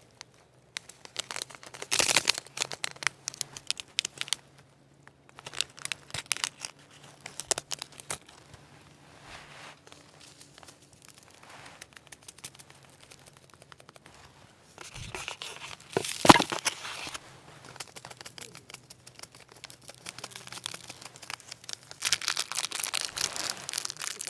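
Plastic food packaging crinkled and torn open in irregular bursts of rustling, with one sharp knock about 16 seconds in.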